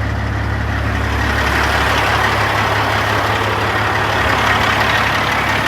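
Heavy semi-truck diesel engine idling steadily, with a broad hiss that grows louder about a second and a half in.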